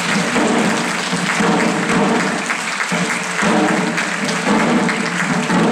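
Audience applause, steady and dense, with a group of voices singing or chanting beneath it.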